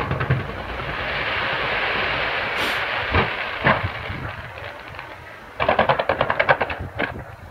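Fireworks going off: a hissing rush in the first few seconds, two sharp bangs around the middle, then a burst of rapid crackling near the end.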